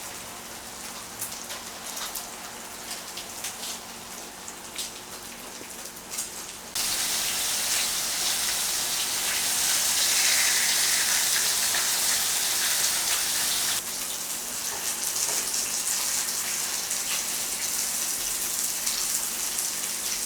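Pork belly sizzling and crackling in fat on a hot grill pan, with scattered pops. The sizzle turns suddenly louder and denser about seven seconds in and eases a little about halfway through.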